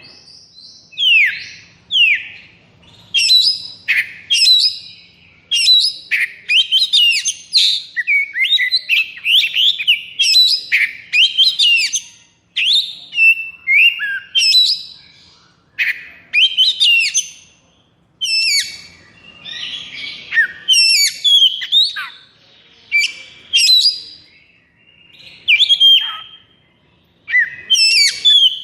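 Oriental magpie-robin (kacer) singing hard: rapid, varied whistles, sweeping notes and harsh rattles delivered in loud phrases with short pauses. This is the fired-up 'konslet' song that kacer keepers play as a lure to set other kacer singing.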